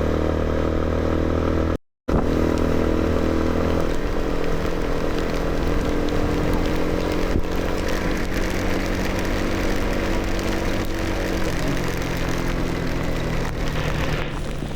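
Motorcycle engine running while riding, with road and wind noise over it. The sound cuts out completely for a moment about two seconds in, and the engine note shifts around four seconds and again near twelve seconds.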